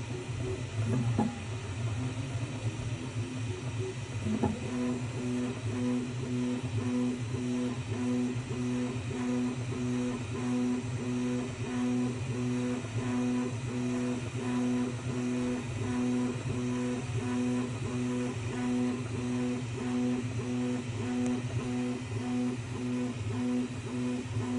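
Creality K1 Max 3D printer running over a steady low fan hum. About four seconds in, a pitched humming tone starts pulsing in a regular rhythm, a little faster than once a second, as the print head moves back and forth. The owner takes this for vibration and a squeak from the X rod.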